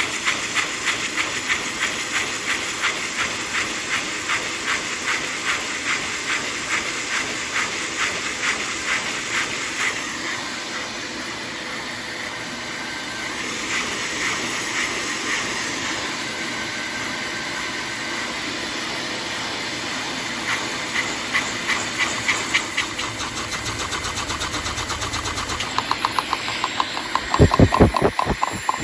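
6x8 butterfly Lego vacuum engine running, with air hissing through it in a rhythmic pulse of about two beats a second. The pulse weakens for a while in the middle and returns. A few louder knocks come near the end.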